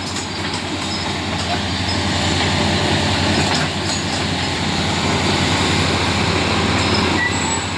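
Heavy diesel excavator working close by: a steady engine rumble with the clatter of its steel tracks, getting louder over the first two seconds.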